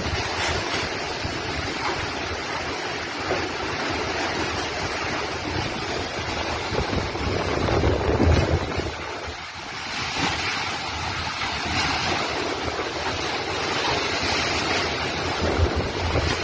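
Hurricane wind blowing hard in gusts and buffeting the microphone, swelling to a peak about halfway through before easing for a moment.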